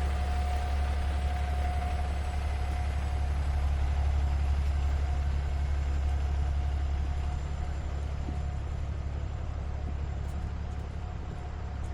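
Steady low rumble of a large vehicle's engine idling close by, with a thin steady whine over it and city street noise; it eases slightly about two-thirds of the way through.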